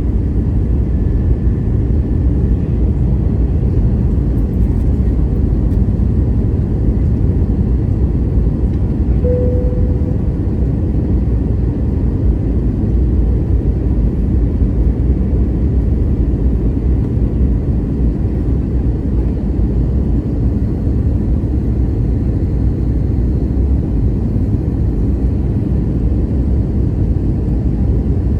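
Steady roar of airflow and engines heard inside the passenger cabin of an Airbus A321neo, with a brief tone about nine seconds in.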